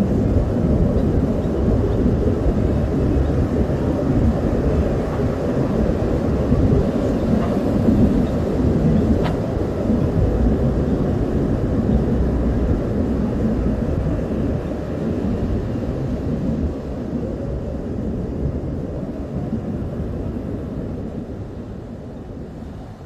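Steady low outdoor rumble with no distinct calls or voices, fading out near the end.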